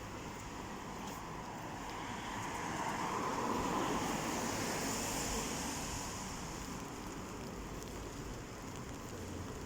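A car passing on a wet street: the hiss of tyres on wet road swells to a peak about four seconds in, then fades.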